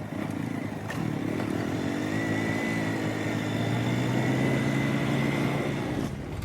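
Mahindra 475 tractor's diesel engine running, picking up speed about a second and a half in and then holding steady.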